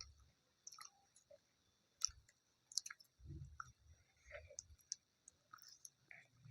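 Faint chewing with scattered small mouth clicks and a few soft low thumps, the sound of someone eating.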